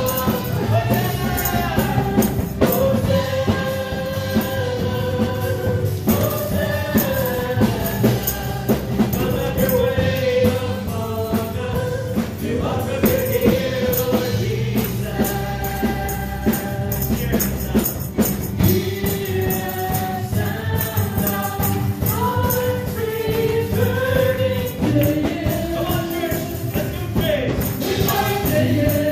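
Gospel worship music: a group singing together over a band, with a tambourine shaken and struck throughout.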